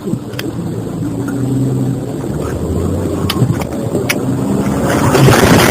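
Vehicle engine running, its pitch shifting, with a few sharp clicks. Near the end a loud rush of noise builds up and grows louder.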